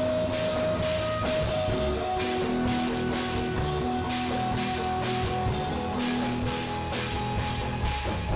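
A live rock band playing an instrumental passage: a drum kit with steady cymbal strokes about twice a second, over sustained instrument tones and bass.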